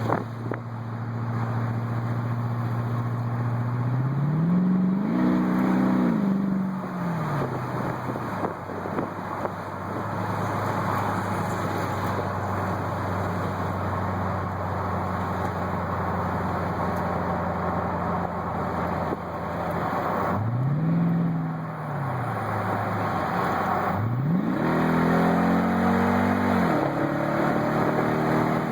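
2012 Toyota Tundra's 5.7-litre V8 heard through open dual exhaust cutouts, running steadily. The revs rise and fall about five seconds in and again around twenty seconds, then climb, hold and drop near the end.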